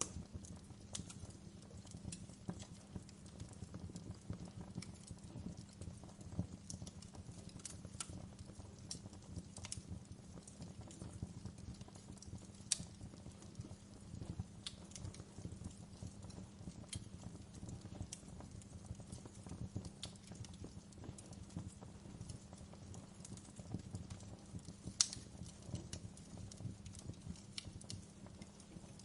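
Wood fire crackling in a fireplace: a steady low rumble of flame under frequent small pops, with two louder snaps, one about halfway through and one near the end.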